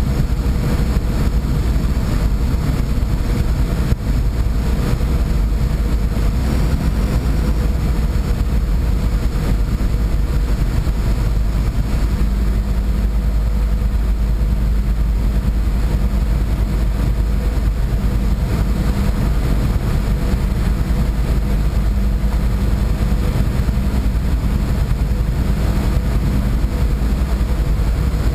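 Boat engine droning steadily, heard on board: a heavy low rumble with a steady hum over it.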